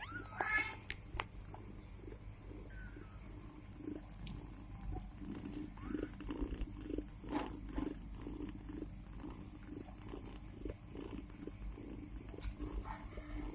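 Domestic cat purring steadily while her newborn kittens nurse, with a brief high kitten mew about half a second in.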